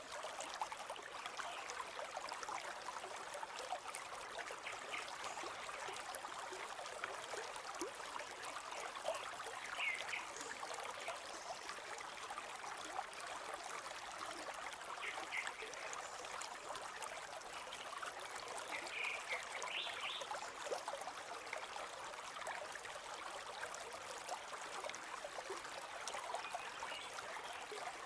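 River water flowing steadily, with a few brief high bird chirps now and then.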